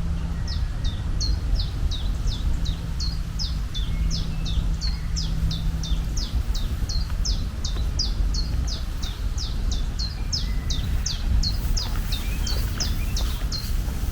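A bird calling over and over, a short chirp falling in pitch about three times a second, over a steady low rumble.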